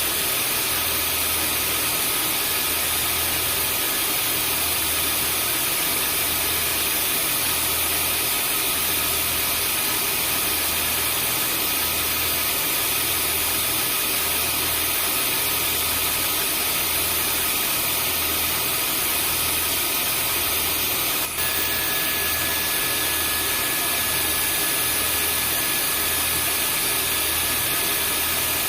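Vacuum cleaner motor running steadily, a loud even rush of air with a high whine and a low hum that pulses evenly. About 21 seconds in there is a brief dip and click, after which an extra whistle tone sounds.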